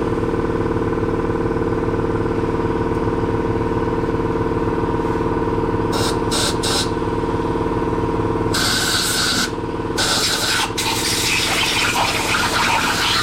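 A small engine running steadily, with loud hissing spray in short bursts about six seconds in, then almost continuously from about eight and a half seconds.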